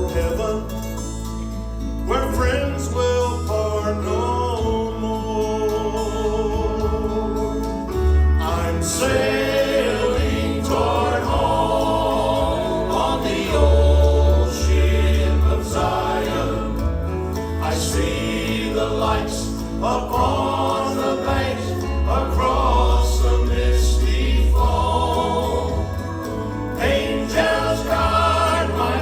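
Gospel quartet singing in close harmony over instrumental accompaniment with a prominent bass line.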